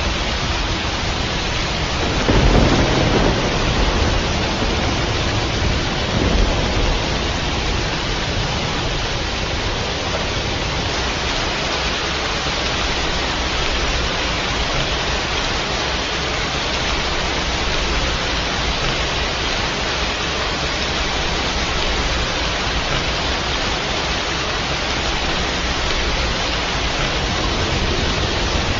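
Steady rain hiss with a low rumble of thunder about two seconds in, lasting a couple of seconds, and a smaller rumble a few seconds later.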